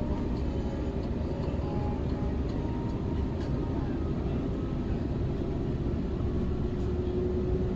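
Electric suburban train running, heard from inside the carriage: a steady rumble of the wheels on the track, with a faint whine that drifts slightly in pitch.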